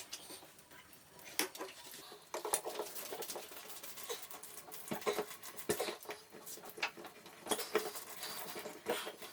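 Pliers gripping and working a Moen shower valve cartridge out of the valve body, giving irregular clicks, scrapes and small knocks. The cartridge is tight and is being pulled out slowly.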